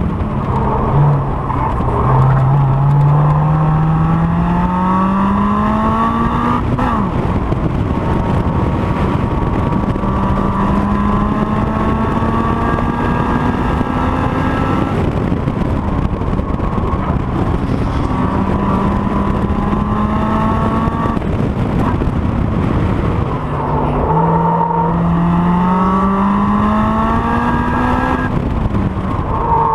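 Honda S2000 inline-four engine heard onboard, pulling hard on track. Its pitch climbs steadily in four long runs, each ending with a sudden fall in revs as the driver shifts or lifts, over constant road and wind noise.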